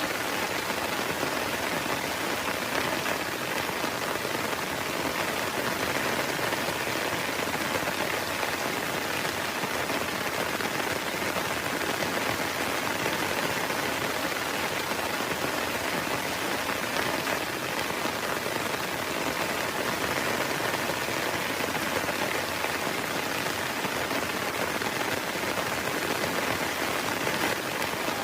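Heavy rain falling steadily, an even unbroken patter with no thunder.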